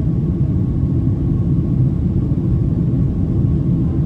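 Steady low cabin rumble of a Boeing 767-300ER in its climb after take-off: engine and airflow noise heard inside the cabin, with a faint steady whine above it.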